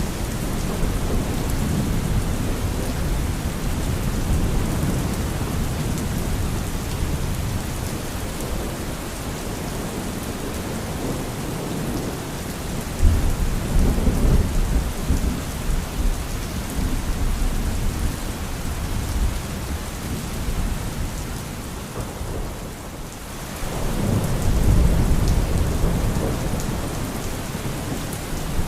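Thunderstorm: steady heavy rain with rolls of thunder, a deep rumble swelling about halfway through and another near the end.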